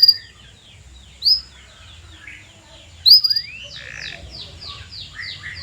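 Canary singing: three loud, sharp upward chirps spaced a second or two apart, then a quick run of short, repeated falling notes.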